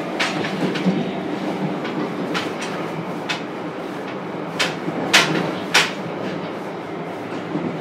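JR Kyushu 303 series electric train (Hitachi IGBT inverter drive) running between stations, heard from inside a motor car. A steady rumble of wheels on rail, with several sharp clacks from the wheels on the track; the loudest comes a little after five seconds in.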